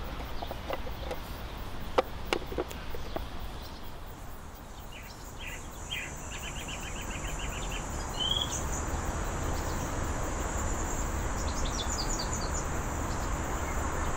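Outdoor park ambience: songbirds chirping in short trills over a steady high hiss, with a few sharp knocks and clicks in the first three seconds.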